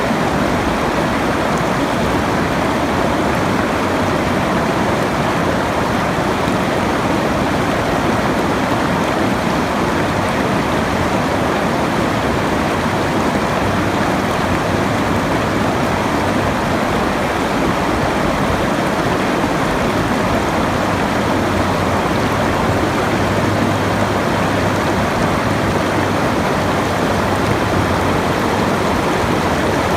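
Steady, unchanging rush of running water.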